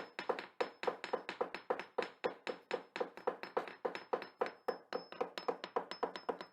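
A fast, regular series of hollow taps or knocks, about three to four a second.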